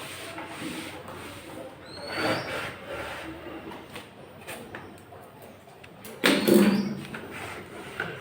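Rubbing and scrubbing noises from cleaning a refrigerator's rubber door gasket, uneven, with a louder burst of noise about six seconds in.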